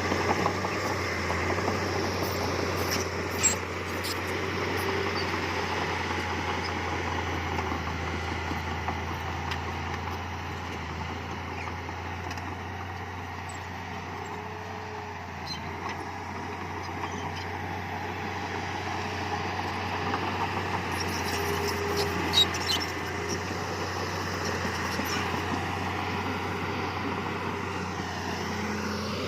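Heavy earthmoving machinery's diesel engine running steadily, with a few sharp knocks, one a few seconds in and a cluster about two-thirds of the way through.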